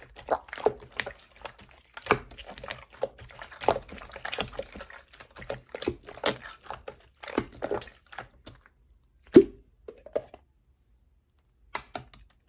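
Clear slime being squished and pressed by hand, making irregular sticky clicks and squelches, with one louder pop about nine seconds in, then a short pause before the clicking resumes near the end.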